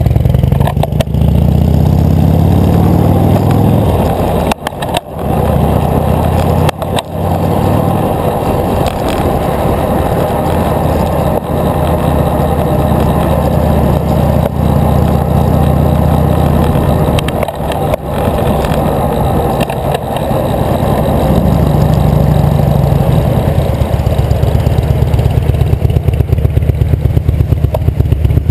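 Loud, steady rumble of wind buffeting the microphone of a camera carried on a moving bicycle, mixed with road noise, with a few brief dips in the first seven seconds.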